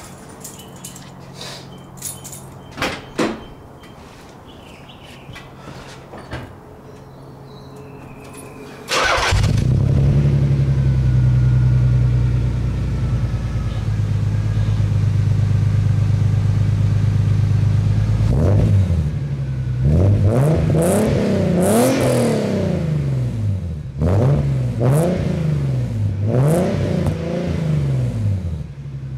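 Nissan 300ZX's V6 with an aftermarket exhaust, heard faintly with a few clicks at first. About nine seconds in it comes in loud at a steady idle, then is blipped through several quick free revs, each rising and falling, before settling back to idle.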